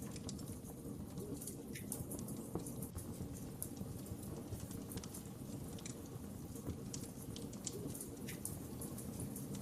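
Wood fire burning with a steady low rumble of flames and frequent irregular crackles and pops.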